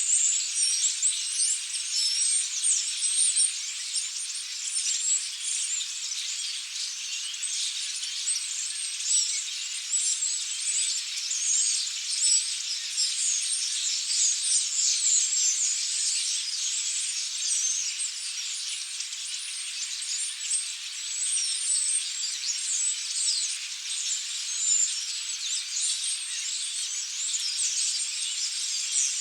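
A large flock of European starlings chattering, a dense, steady wall of overlapping high chirps, clicks and whistles.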